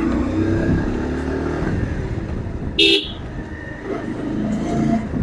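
Motorcycle engine running on the road amid traffic, with a short vehicle horn toot about three seconds in.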